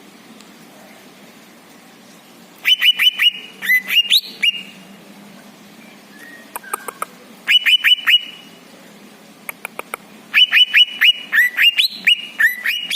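Songbird singing in bursts of quick, sharp downward-sliding notes with a few rising ones, dense and near-continuous from about ten seconds in.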